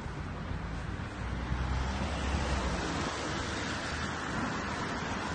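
Road traffic on wet tarmac: a vehicle's low engine rumble with tyre hiss that builds about a second in and stays steady.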